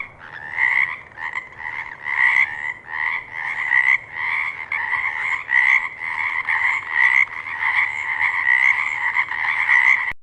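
A chorus of frogs croaking, with overlapping calls pulsing about twice a second. It starts abruptly out of silence.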